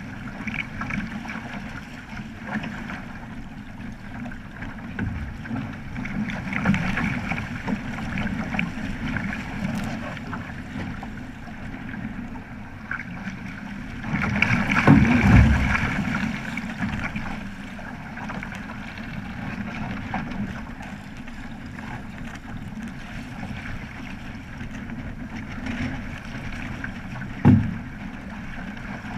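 Water rushing and splashing along the hull of a Flying Fifteen keelboat under sail, with wind buffeting the microphone. A louder surge comes about halfway through, and a single sharp knock comes near the end.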